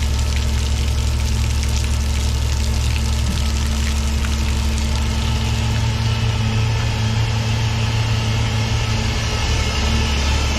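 Diesel engine of a heavy truck tractor running steadily with a low, even hum.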